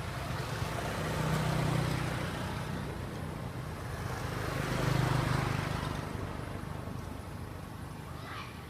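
Motor vehicles passing by on a road, two in turn, each growing louder and then fading, about two and five seconds in.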